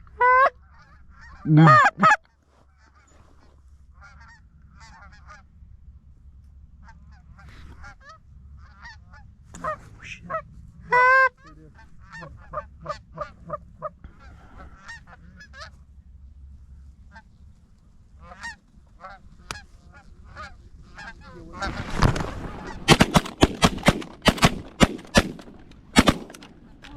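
Geese honking and clucking, with a few loud honks among many fainter calls. About 22 seconds in, a rapid run of sharp cracks and clatter over a rise in noise takes over and becomes the loudest sound.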